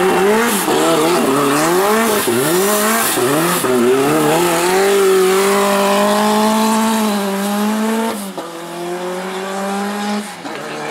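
Rally car engine driven hard on a stage: the revs rise and fall quickly several times as it shifts and lifts, then hold a long pull at high revs that cuts off sharply about eight seconds in, settling to a lower steady note.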